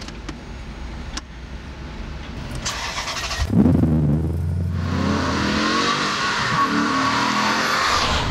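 Maserati GranSport's naturally aspirated 4.2-litre V8 running, rising sharply in revs about three and a half seconds in, then running loud and steady.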